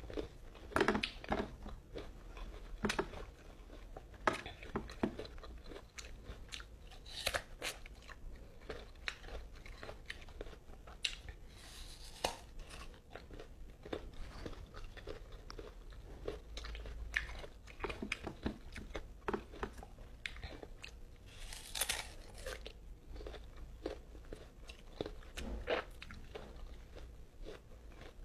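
Close-up mouth sounds of someone biting and chewing mango slices: irregular crunches and wet chewing and smacking, with a couple of longer sucking, slurping noises about twelve and twenty-two seconds in.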